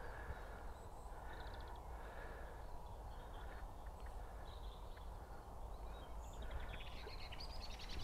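A bird calling faintly, a series of short calls about once a second over the first few seconds, with a few more near the end, over quiet woodland background.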